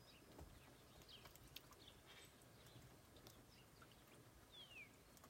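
Near silence: quiet room tone with a few faint, short, high chirps, one of them a quick falling sweep near the end.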